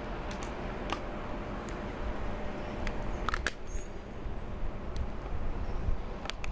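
Steady outdoor background noise with a low rumble, broken by a few sharp clicks, two of them close together about three and a half seconds in.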